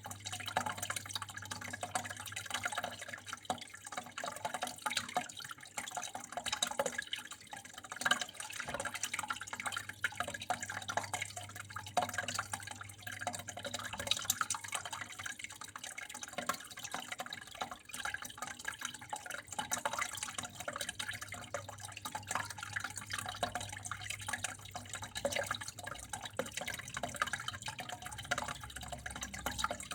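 Water running and trickling steadily, with a constant patter of small drips and splashes. A low steady hum lies underneath, weakening near the end.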